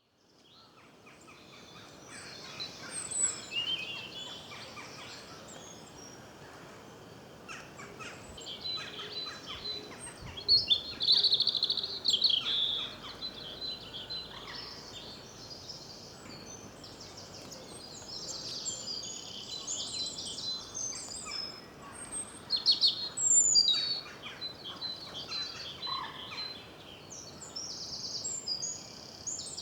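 Several small songbirds singing and chirping at once, their phrases overlapping continuously, with the loudest bursts of song about a third of the way in and again past the middle.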